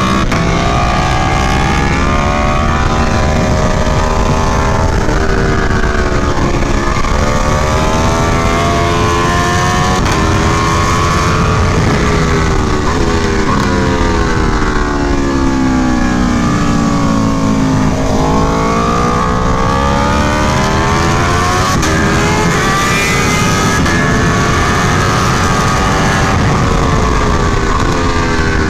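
Aprilia Tuono V4 1100 Factory's 65-degree V4 engine under hard riding on track: the pitch climbs in repeated sweeps, dropping sharply at each upshift, then falls away steadily under braking and downshifts before climbing again near the end.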